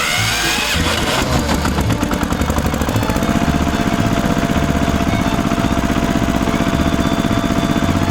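A small motor on a homemade mini tractor running steadily with a fast, even rattling rhythm, settling in about a second in.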